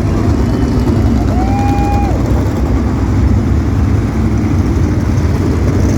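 A field of asphalt sprint cars circling the track together before the start, their engines making a loud, steady drone.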